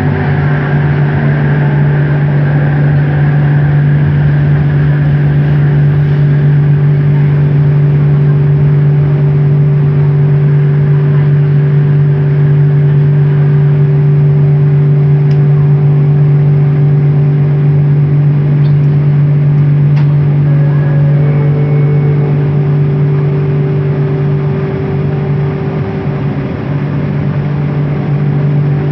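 Bombardier Innovia ART 200 metro train running, heard from on board: its linear induction motors give a loud, steady low hum with a higher tone above it, over the rumble of the running train. Faint short rising tones come in about two-thirds of the way through, and the sound eases slightly near the end.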